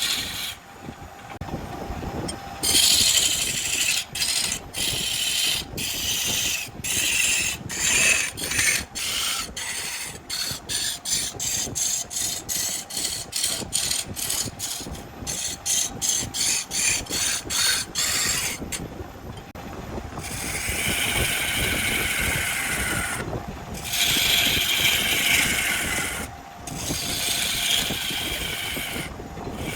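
A power tool cutting wood in many short bursts with brief breaks between them, the breaks coming closer together, then longer spells of cutting whose pitch falls away.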